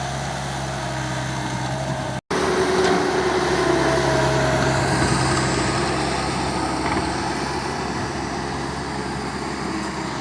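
Mini skid steer's engine running steadily under work load as it scoops sand and cuts a ditch. The sound drops out for a moment about two seconds in and comes back louder.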